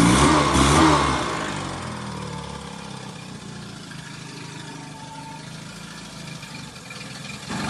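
Yamaha F25 four-stroke outboard engine revving, its pitch wavering up and down with the throttle. About a second in the revs fall away, and over the next two seconds the sound drops to a quiet, steady low running.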